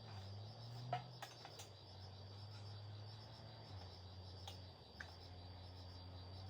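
Faint, steady low hum of a motor running, its pitch shifting slightly partway through, with a steady high insect chirring and a few light clicks.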